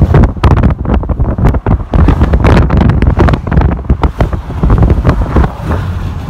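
Strong wind buffeting the microphone: a loud, dense low rumble broken by irregular gusty pops, easing slightly near the end.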